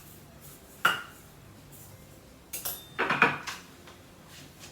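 Kitchen dishware and a utensil clinking: one sharp ringing clink about a second in, then a short cluster of clattering knocks a couple of seconds later.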